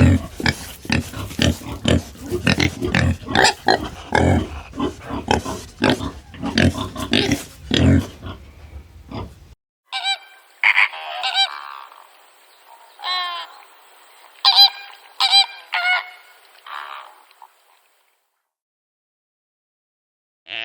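Animal vocalisations: first a rapid, dense run of noisy grunts or snorts lasting about nine and a half seconds, stopping abruptly; then a series of short, pitched calls spaced a second or so apart, fading out a few seconds before the end.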